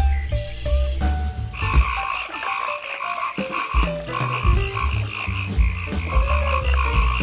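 Frogs calling in a rapid, pulsing chorus that starts about one and a half seconds in, over soft background music with a slow melody.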